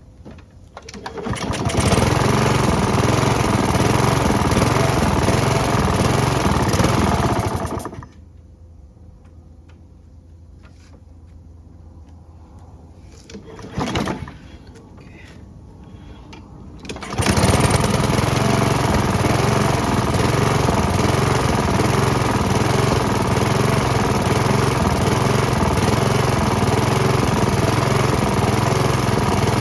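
Honda HRX217 lawn mower engine starting on a pull after its carburetor has been cleaned, running steadily for about six seconds, then cutting out. A brief burst near the middle, then it starts again about two-thirds of the way in and keeps running steadily.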